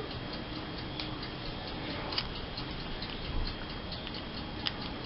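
Faint, even ticking, about four ticks a second, with a couple of slightly louder clicks about two seconds in and near the end.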